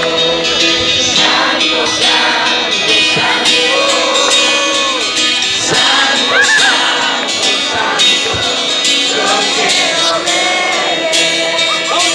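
Group singing of a worship song with instrumental accompaniment and a tambourine shaken in rhythm.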